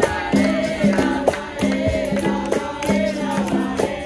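Capoeira roda music: several voices singing together over a rhythm of berimbau and pandeiro.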